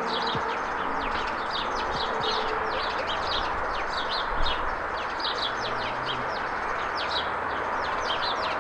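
Many small birds chirping rapidly and continuously over a steady background hiss.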